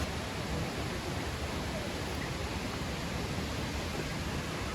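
Steady, unbroken rushing of a waterfall, water falling over rocks.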